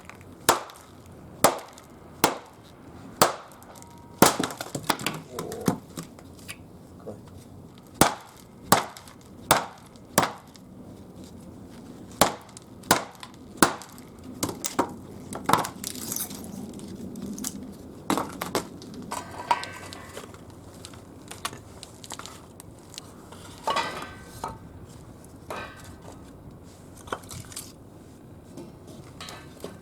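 Firewood being broken up for the stove fire: a series of sharp, irregular wooden cracks and knocks, about one a second at first and thinning out later.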